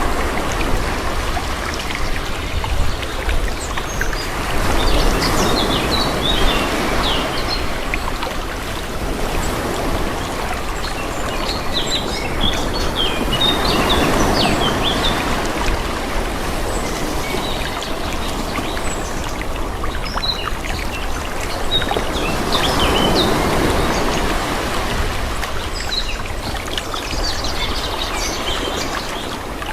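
Calm sea: small waves washing in, the water sound swelling and easing about every nine seconds, with birds chirping over it.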